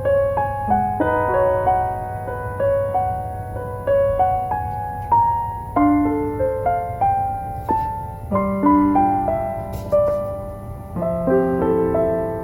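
Soft piano music: a slow melody of single struck notes that ring and fade, with lower chords entering near the end.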